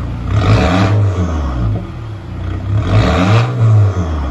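Audi A4 revved through its AGM-fitted exhaust: two short throttle blips, about half a second in and again near three seconds, each rising and falling back to idle.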